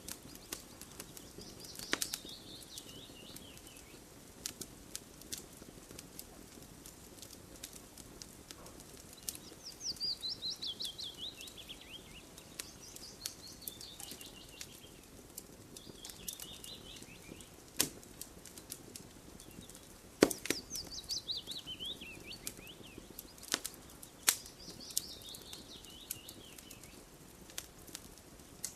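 Campfire crackling with irregular sharp pops and a soft low rush of burning wood. Over it a songbird sings about six times, each song a quick run of high notes falling in pitch over two to three seconds.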